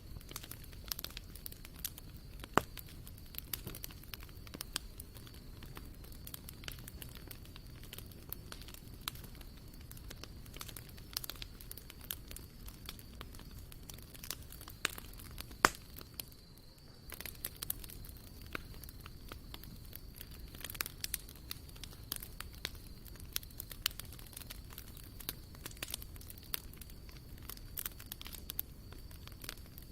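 Wood campfire crackling with a constant patter of small irregular snaps, and two sharper, louder pops, one about two and a half seconds in and one about halfway through.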